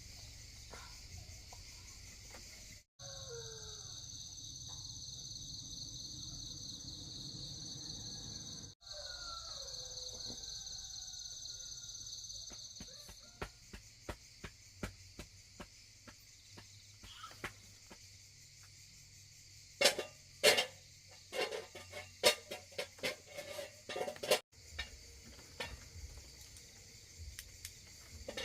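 Insects trilling steadily in a high, finely pulsed chirr. About halfway through the trill fades and a run of sharp clicks and taps follows, loudest about two-thirds of the way in.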